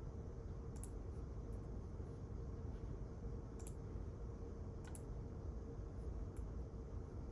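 Quiet library room tone: a steady low hum with a faint held tone in it, and about six light, irregular clicks scattered through it.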